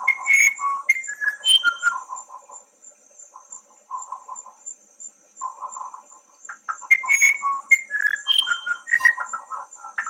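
Forest birds calling: short clear whistled notes and quick chattering trills, in two busy bouts near the start and again later, over a steady high insect chirping pulsing about three times a second.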